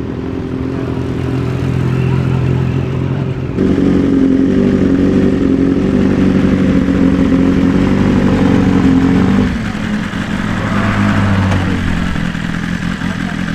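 Superbike engines running loud and fairly steady. The sound steps up sharply about three and a half seconds in and drops back again about three quarters of the way through.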